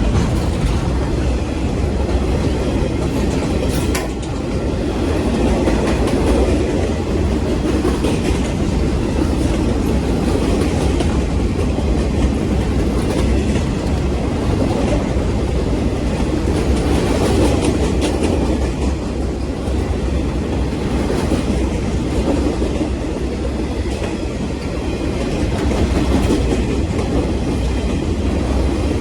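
Passenger train in motion, heard while riding aboard: a steady rumble of wheels on the rails with scattered clicks from rail joints.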